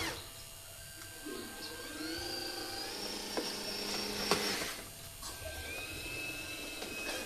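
Small electric motor of a toy RC dump truck whining, rising in pitch as it speeds up and then holding steady. It cuts out for a moment, with a couple of clicks, and starts again at a lower pitch.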